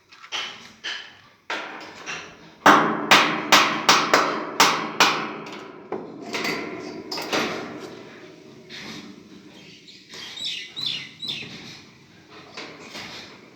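Hammer blows during the fitting of a window air conditioner: scattered knocks, then a fast run of about ten loud strikes a few seconds in, followed by lighter, sparser knocks.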